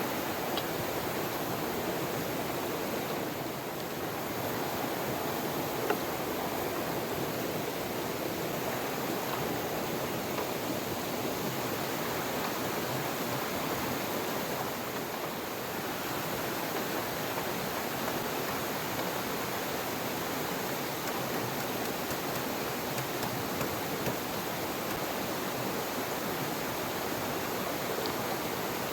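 Steady rush of flowing river water, with one short knock about six seconds in.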